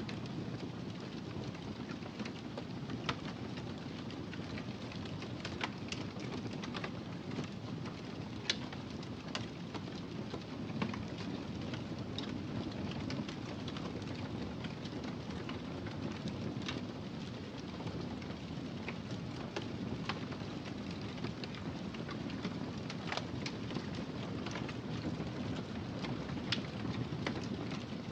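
Wood fire crackling: a steady low rumble of burning with irregular sharp pops and snaps scattered through it.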